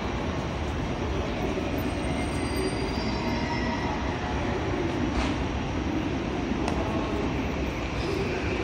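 Steady rumble of a JR West 323 series electric train standing at a station platform, with busy station ambience.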